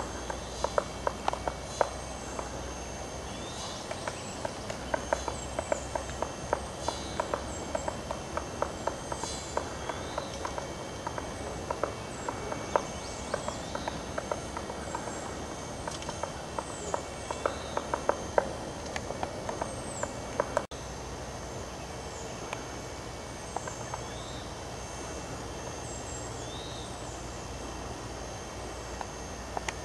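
Woodpecker pecking and chipping at fire-killed wood while foraging for wood-boring grubs: quick, irregular sharp taps that thin out after a break about two-thirds of the way through. Birds give short falling call notes throughout.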